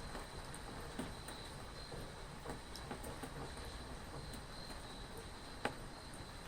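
Steady rain hiss with scattered drops ticking, one sharper drop a little before the end, over a faint steady high-pitched trill.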